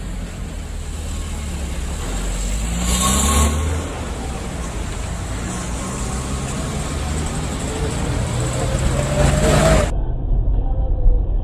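Car engine running with road noise, with a brief louder rush about three seconds in. Near the end the engine revs up, rising in pitch, then the sound cuts abruptly to duller, muffled car noise.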